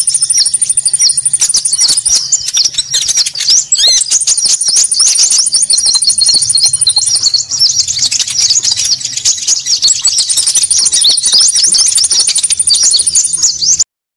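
Recorded lure calls of konin birds, a dense, busy chorus of rapid high chirps with a thin high trill coming and going three times over it, the kind of call played to draw birds in for trapping. It cuts off suddenly near the end.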